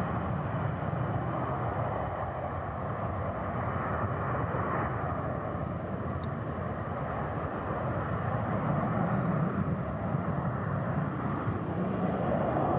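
Jet airliner engines running, a steady rushing rumble that swells slightly near the end.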